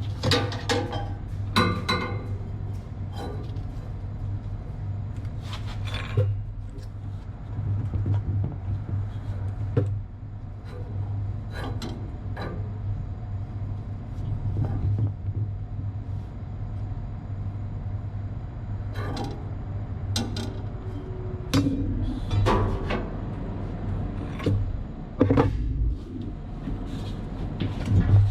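Metal hand tools clinking and knocking against steel at irregular intervals, a spanner working the motor's mounting bolts, over a steady low machinery hum.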